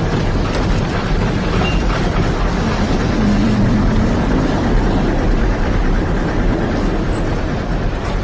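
Loud, steady rushing rumble of a flood torrent, a dense even roar with no breaks.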